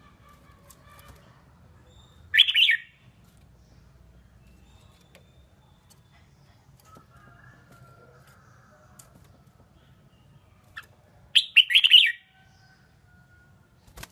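Red-whiskered bulbul singing two short, loud song phrases, one about two seconds in and another near eleven seconds, with faint chirps in between.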